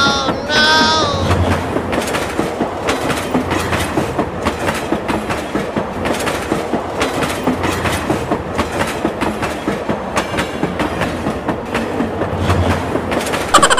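Kiddie mini train ride running on its small track: a rapid, steady clickety-clack of the cars' wheels over the rail joints. A short high-pitched sound that slides in pitch comes near the start and again near the end.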